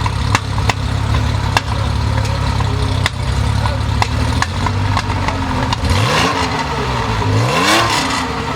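Porsche 935/78 K3 Kremer's twin-turbo flat-six race engine idling with scattered sharp pops from the exhaust, then blipped twice near the end, the pitch rising and falling each time.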